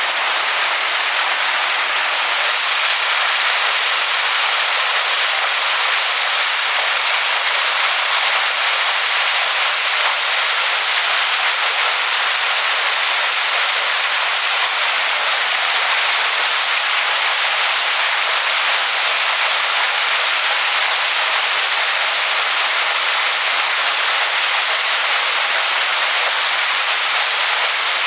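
Waterfall pouring onto rocks: a steady, loud rushing hiss of falling water, bright and even with little low rumble.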